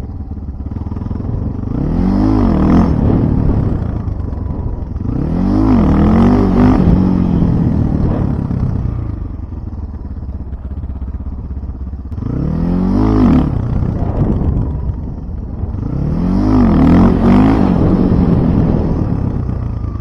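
Motorcycle engine revved up and let fall back four times, its pitch climbing and dropping with each swell, running at a lower, steadier level in between.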